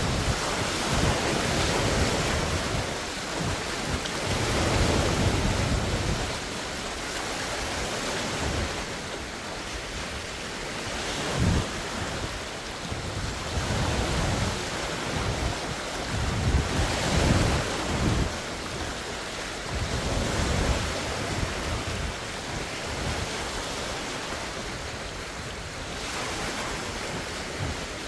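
Large wind-driven waves on a lake breaking and washing against the shore, surging and easing every few seconds. Strong wind gusts buffet the microphone, adding a low rumble.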